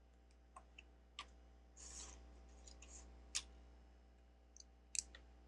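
Small plastic Lego pieces clicking and tapping as they are picked up and handled, with a short rustle of pieces being sorted about two seconds in.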